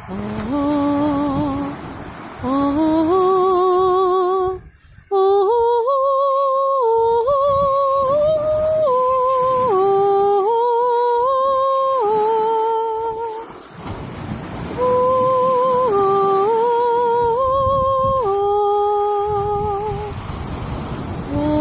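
A woman's voice humming a slow wordless melody of long held notes with vibrato, stepping up and down in pitch, with short breaks about five and fourteen seconds in.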